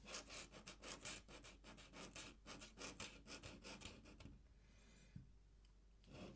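Pen scratching across paper in quick, repeated strokes, about five a second, while inking a drawing; the strokes stop about four seconds in, with a couple more faint ones near the end.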